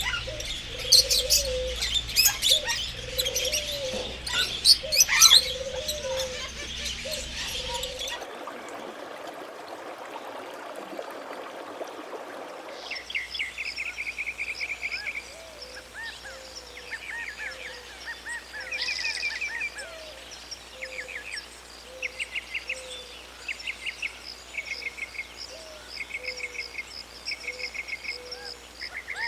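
Several birds calling and chirping. Dense high chirps with low notes repeating about once a second give way, after a stretch of hiss, to short high trills repeated every second or so.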